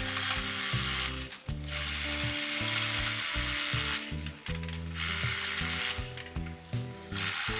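Makita 18V cordless reciprocating saw cutting through bamboo in several bursts of a second or two each, with background music under it.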